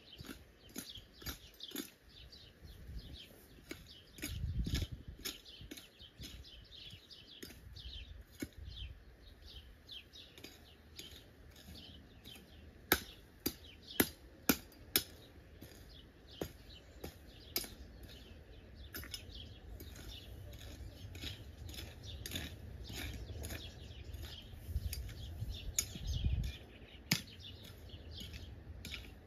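Wild birds chirping and singing throughout, with several sharp knocks about halfway through and one more near the end.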